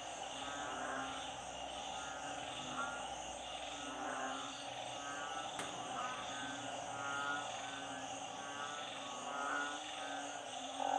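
A dense chorus of frogs calling, with trilling calls repeating about once a second over a steady bed of many other callers. One sharp click sounds about halfway through.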